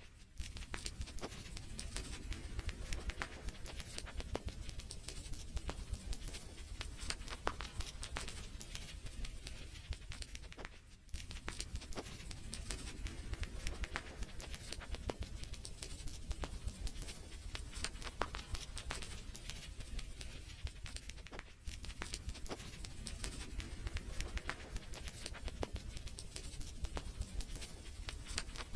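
Wood fire in a fireplace crackling: a dense, irregular run of small pops and snaps over a low steady rumble. The sound briefly drops quieter twice.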